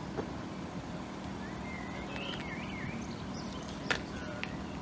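Steady low vehicle-like rumble, with a short run of high wavering chirps about two seconds in and a sharp click near the end.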